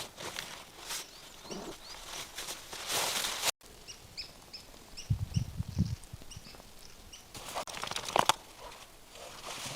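A small bird chirping, a quick run of short, repeated high chirps, between stretches of rustling and scuffing outdoors, with a few low thuds in the middle.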